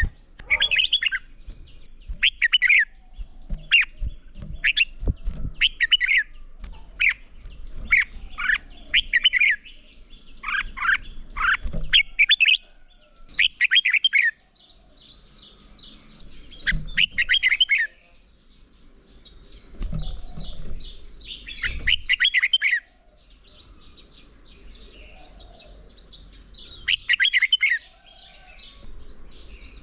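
Red-whiskered bulbul song: short, loud whistled phrases repeated every second or so. From about 13 seconds in, bursts of higher, rapid chattering alternate with the phrases.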